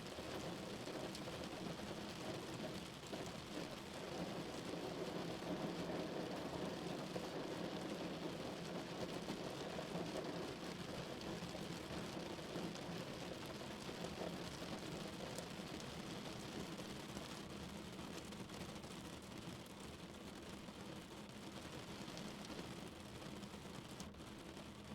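Steady rain drumming on a car's roof and windows, heard from inside the cabin as a dense, even patter with a low rumble underneath.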